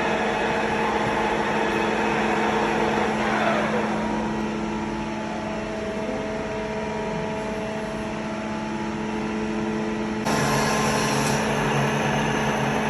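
Metal lathe running, with a steady motor hum and whine from the machine. A tone falls in pitch about three seconds in, and the sound changes abruptly about ten seconds in.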